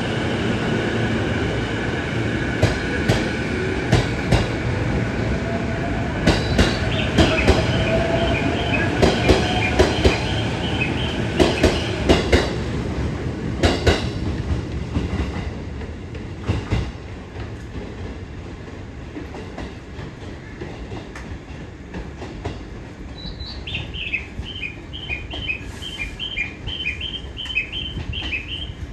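JR East E233 series electric train running, its wheels clacking over the rail joints; it grows quieter about sixteen seconds in. A repeating two-tone electronic ringing sounds twice, in the middle and near the end.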